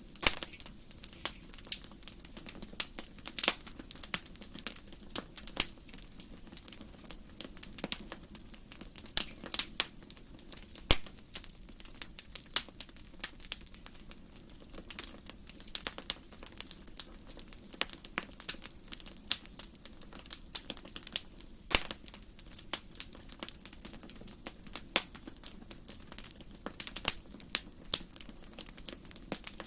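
Wood fire burning in a fireplace: a faint steady hiss with sharp, irregular crackles and pops throughout.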